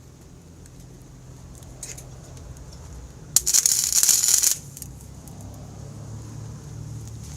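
A short burst of flux-core arc welding, a harsh crackle about a second long that starts and stops abruptly midway, over a steady low hum.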